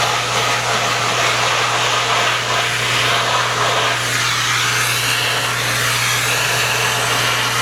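Household vacuum cleaner running steadily: a constant motor hum under a loud rush of suction air that shifts a little in tone.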